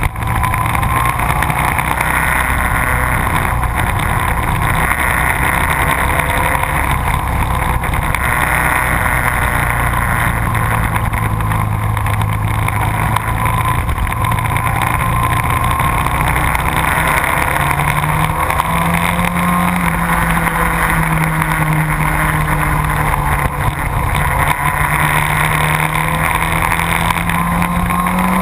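Sport motorcycle engine running hard on a race track, over heavy wind rush. The engine note holds steady at first, then climbs steadily through the second half as the bike accelerates.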